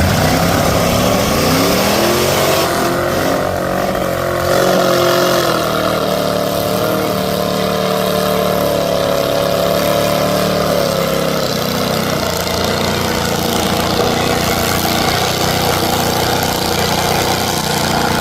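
Mud truck's engine revving up over the first couple of seconds, then held at high revs with a steady pitch, and dropping to a lower speed about two-thirds of the way through.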